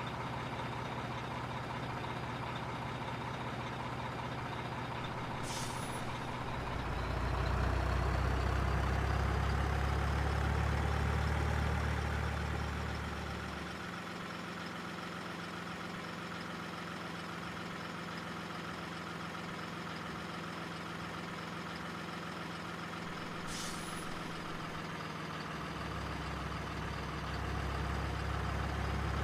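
Simulated diesel truck engine sound from a remote-control truck, running steadily and twice getting louder and higher in pitch as it revs, with two short high hisses like an air-brake release.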